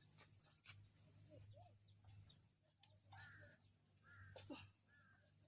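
A bird calling faintly three times in quick succession, among scattered faint clicks and rustles.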